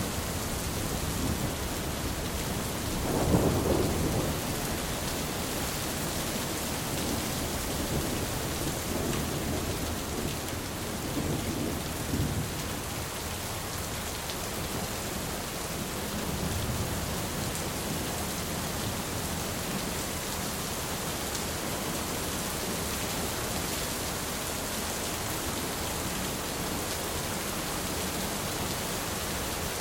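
Thunderstorm: steady rain with a rumble of thunder about three seconds in and fainter rumbles later on.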